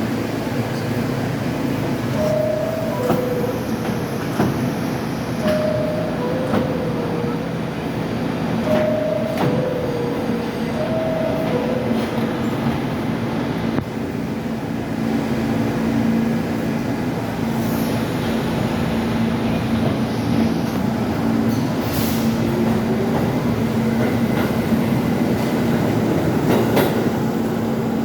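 New York City Subway R68 car running on track: a continuous rumble with rail clicks and a few brief squeals. In the first half a two-note falling chime sounds four times, about three seconds apart, and a steady hum sets in about halfway.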